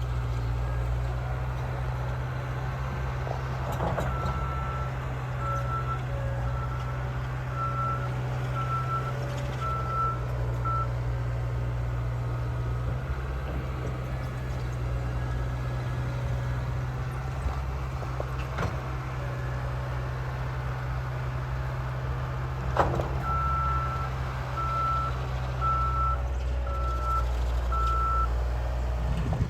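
Snowplow truck's engine running steadily with its backup alarm beeping about once a second, in two runs of several seconds each. A few brief knocks are heard, the sharpest about two-thirds of the way through.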